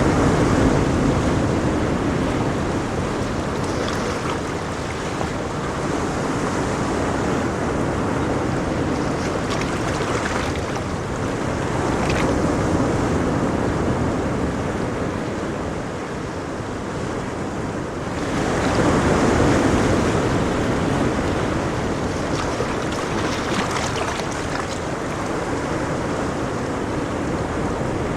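Ocean surf: steady wash of breaking waves with slow swells, one wave building about two-thirds of the way through and breaking loudest, with hissing spray in the highs.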